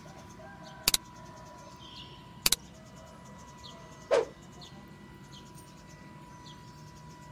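Birds calling: short high chirps scattered throughout, sharp double clicks about a second in and again about two and a half seconds in, and a louder call sliding downward about four seconds in. Under them runs a faint steady high hum.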